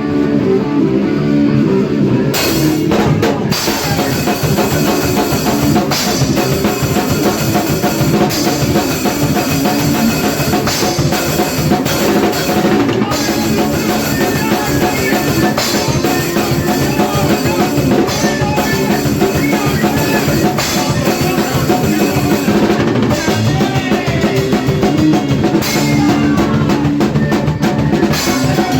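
Hardcore punk band playing an 80s-style riff: electric guitar alone for about two seconds, then the drum kit with cymbals and the rest of the band come in and play on at full volume.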